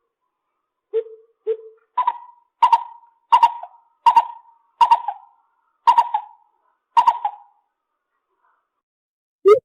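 Lesser coucal calling: two short low hoots, then a run of seven louder, higher notes about one every 0.7 s, each dying away, before the bird falls silent.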